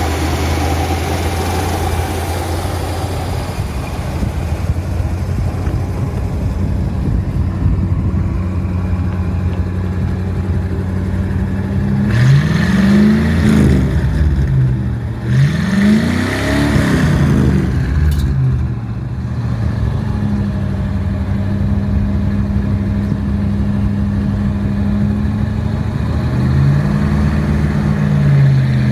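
1956 Chevrolet Bel Air's 265 cubic inch V8 idling, revved twice in quick succession about halfway through and once more lightly near the end.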